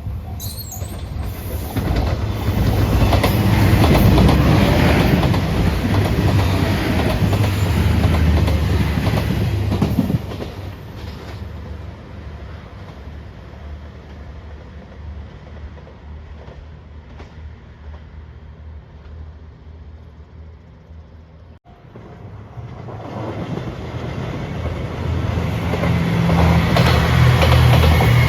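A Nanpu limited express diesel train passing close by at speed, its engines rumbling and its wheels clattering over the rail joints. The noise drops away suddenly about ten seconds in and falls to a fainter rumble, then a second train builds up loudly near the end.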